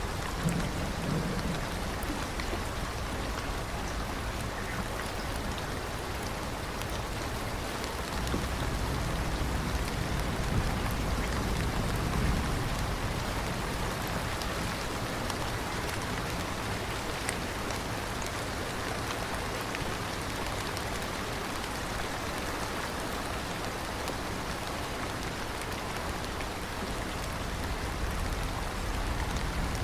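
Steady rain falling, an even hiss of many drops. A low thunder rumble swells about eight seconds in and fades a few seconds later.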